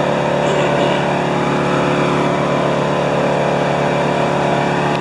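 Wood chipper's engine running steadily at high speed, a loud even drone.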